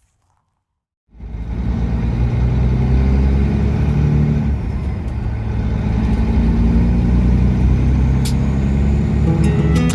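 Kenworth W900 semi truck's diesel engine running with a loud, steady low drone, cutting in abruptly about a second in.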